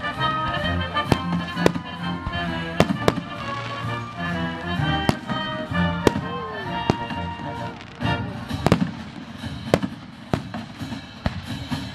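Fireworks bursting in repeated sharp bangs at irregular intervals over a live symphony orchestra playing; the orchestra thins out about two-thirds of the way through while the bangs continue.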